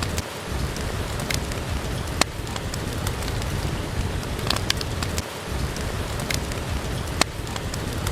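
Steady heavy rain hiss, with a few scattered sharp pops from a crackling wood fire in a fireplace.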